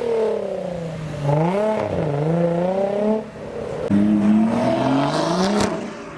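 Modified car engines revving hard as cars pull away, the pitch climbing and dropping in pulls. One engine climbs and cuts off about three seconds in, then another pulls away with rising revs, with a couple of sharp cracks near the end.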